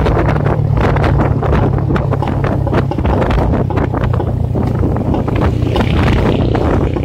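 Loud wind buffeting the microphone of a moving motorcycle, a steady low rumble with rapid fluttering gusts.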